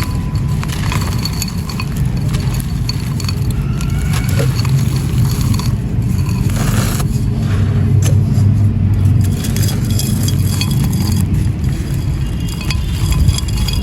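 Dry, gritty sand-and-cement mini pot being crumbled and crushed: a continuous crunching with many small crackles and clinks over a steady low rumble.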